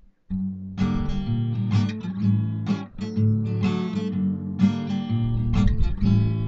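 Acoustic guitar strumming chords in a steady rhythm as the instrumental intro of a song, starting just after a short click.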